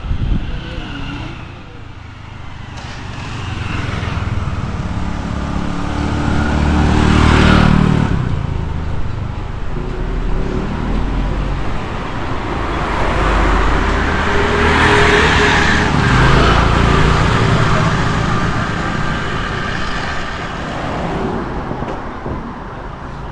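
Road traffic: motor vehicles passing close by, one swelling to a peak about seven seconds in and another louder stretch around fifteen seconds.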